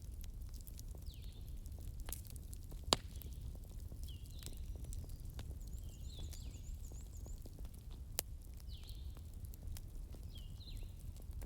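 Campfire burning with a low steady rumble and scattered crackles of firewood, two sharp loud pops about 3 and 8 seconds in. Over it, a night creature gives short falling chirps every second or two.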